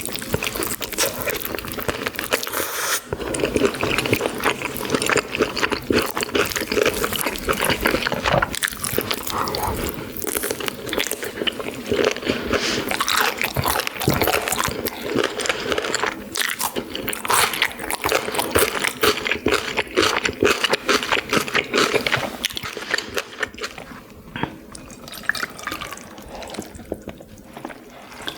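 Close-miked eating sounds: wet slurping of cup-ramen noodles and broth with chewing, a dense run of small moist clicks and smacks that thins out near the end.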